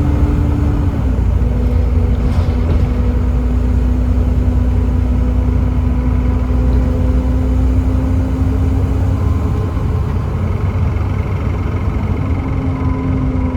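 Volvo B7TL double-decker bus with its Volvo D7C 7.3-litre diesel and ZF Ecomat gearbox, running on the road: a heavy low rumble with a steady whine that drops in pitch about a second in and rises again near the end.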